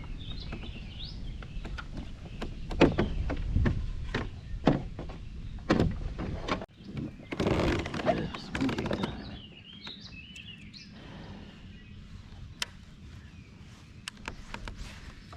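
Scattered knocks and thumps of gear being handled aboard a kayak, with a denser rustling stretch midway, and a few bird chirps.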